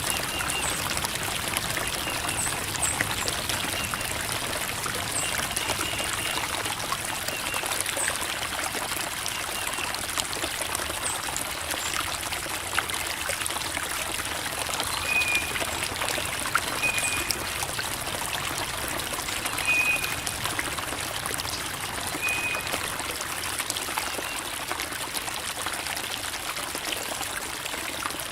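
Creek water babbling and trickling over rocks in a steady stream, with a few short high chirps over it now and then.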